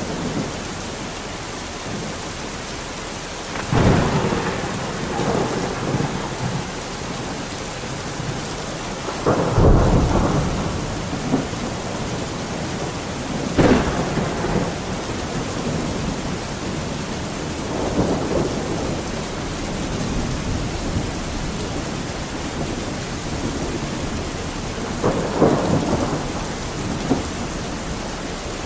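Steady heavy rain in a thunderstorm, with about five rolls of thunder swelling and fading over the rain; the loudest comes about ten seconds in, and one about fourteen seconds in starts with a sharper crack.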